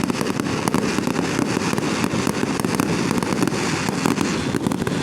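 Fireworks going off: a dense, unbroken crackle of many small sharp pops over a steady low rumble.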